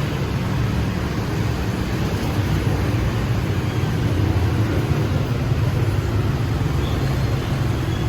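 Busy city street traffic: a steady, continuous wash of passing motor vehicles.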